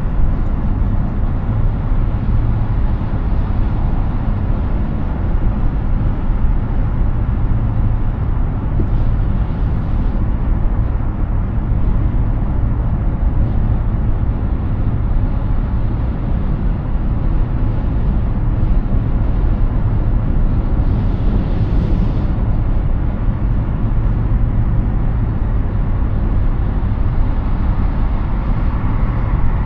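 Steady highway driving noise from a Hyundai Ioniq 6 electric car: constant low tyre and road rumble with wind, and no engine note. A brief hiss swells up and fades twice.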